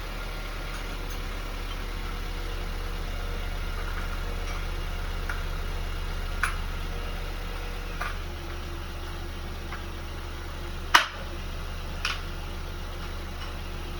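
2018 Chevy Equinox's 1.5-litre turbocharged four-cylinder idling steadily after an oil change, left running to check for leaks; its low hum shifts slightly about eight seconds in. A few sharp metal clinks of wrenches being put away, the loudest about eleven seconds in.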